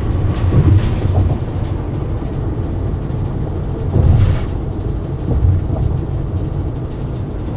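Steady low road and engine rumble inside a car's cabin at highway speed, swelling briefly about four seconds in.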